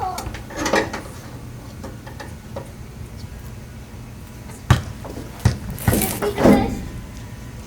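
A few scattered sharp clicks and knocks from hand-tool work on the truck's fuel tank hoses, with a short burst of voice a little after the middle.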